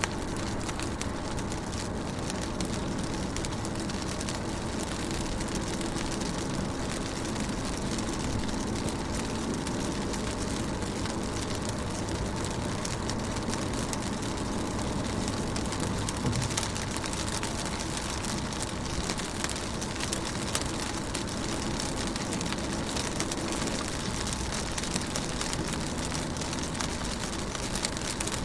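Rain pattering steadily on a car's window and body, with a low even rumble beneath.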